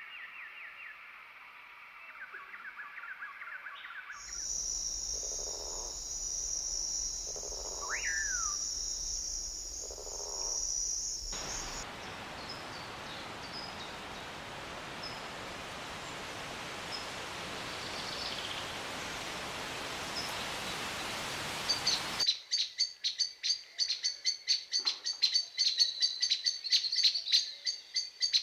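Edited run of tropical forest sounds with abrupt changes: bird chirps, then a steady high-pitched buzz with a single rising and falling bird call, then an even hiss for about ten seconds, then loud, rapid, repeated bird chirps near the end.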